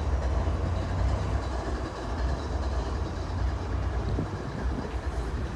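CSX SD70AC diesel-electric locomotive idling with a steady low rumble.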